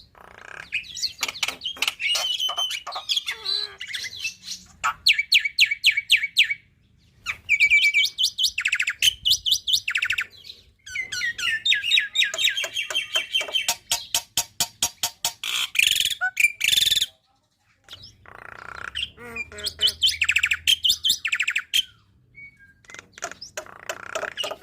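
Black-winged myna (jalak putih) singing a loud, fast, varied song of rapid repeated notes and chattering trills, packed with imitated calls of other birds, broken by a few short pauses.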